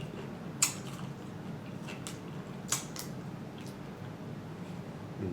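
Close-miked eating sounds of fried catfish being chewed: a few short, sharp mouth smacks and clicks, the loudest about two-thirds of a second in, over a low steady hum.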